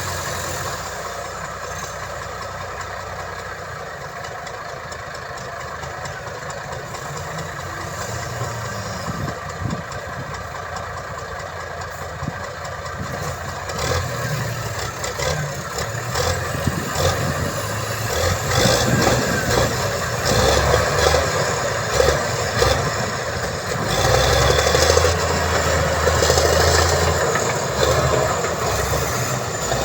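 A heavy earthmoving machine's diesel engine running, with rattling and clanking that grow louder in the second half.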